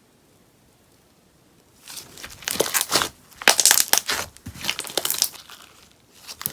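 Sponge slime being squeezed and worked, giving quick runs of popping and crackling. It starts about two seconds in, comes in several bursts through the middle, and flares again at the end.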